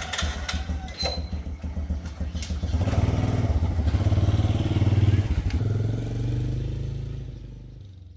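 Motorcycle engine with a freshly replaced carburetor running and revved, louder from about three seconds in, then fading away near the end.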